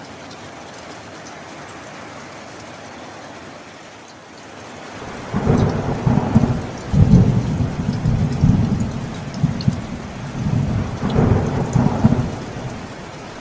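Steady rain, then about five seconds in a long rolling peal of thunder rumbles low, swelling several times over about seven seconds before dying away under the rain again.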